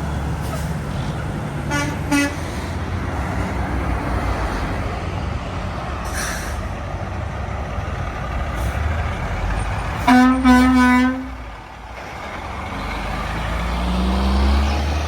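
Steady highway traffic passing, with trucks. A horn gives two short toots about two seconds in, and a louder horn sounds in quick blasts for about a second near the ten-second mark. Near the end a truck engine rises in pitch and grows louder as it approaches.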